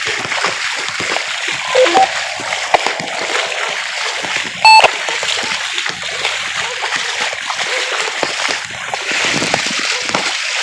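Steady splashing of feet wading through street floodwater. About halfway through there is a short, loud electronic beep.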